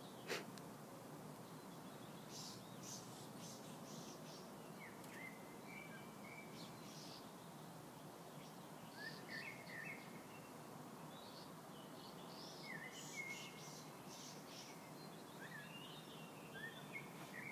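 Faint bird chirps, short calls coming in loose clusters every few seconds, over a steady low background rumble. A single sharp tap sounds just after the start.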